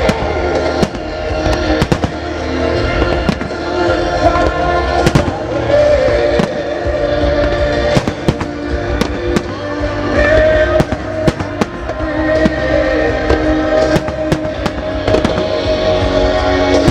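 Fireworks shells bursting in a music-synchronised display: many sharp bangs at irregular intervals over loud musical-theatre melodies.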